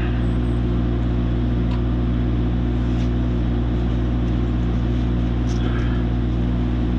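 An engine idling steadily with an even low hum, with a few faint metallic clicks over it.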